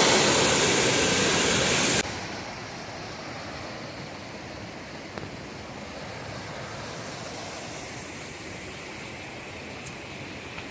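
Waterfall rushing loudly, then cutting off abruptly about two seconds in to a much quieter, steady rush of water.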